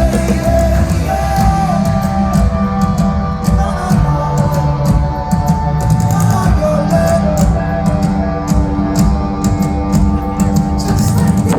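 Pop-rock band playing live at a concert, with a singer's held notes over drums, cymbals and guitar.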